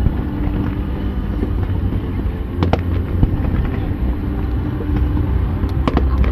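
Aerial fireworks going off in a dense barrage: continuous deep booms of shell bursts, with sharp bangs and cracks about three seconds in and again near the end.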